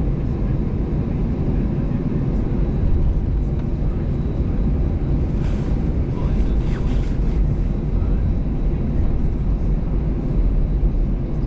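Steady low cabin rumble of an Airbus A320-214 taxiing, its CFM56 engines at idle, heard from inside the passenger cabin. A brief faint hiss comes about halfway through.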